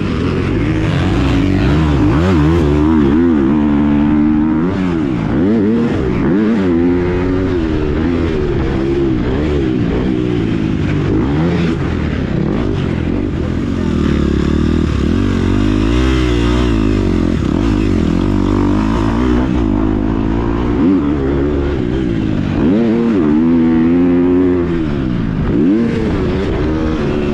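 2019 KTM 250 SX-F four-stroke single-cylinder dirt bike engine being ridden hard, its pitch sweeping up and down every second or two as the throttle is opened and chopped through the gears.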